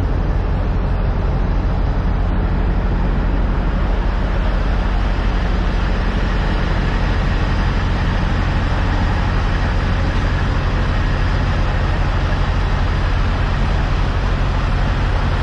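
Peterbilt 379 semi truck's diesel engine running steadily, a constant low drone with no change in pitch.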